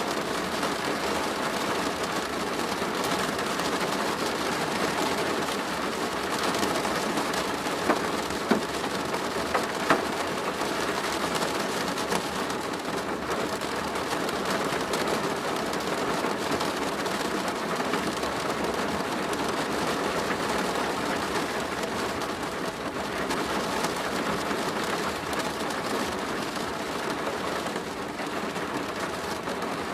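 Steady rain drumming on a plastic roof, a dense even patter with a few sharper drop hits about eight to ten seconds in.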